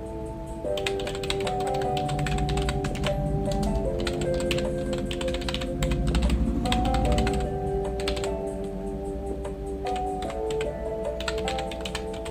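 Computer keyboard typing in irregular runs of key clicks, pausing for a couple of seconds about two-thirds of the way through, over background music of held chords.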